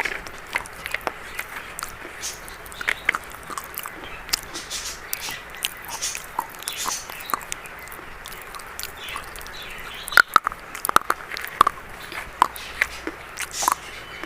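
Crunching of a brown biscuit: a run of short, sharp, crisp crackles, thickest and loudest about ten seconds in.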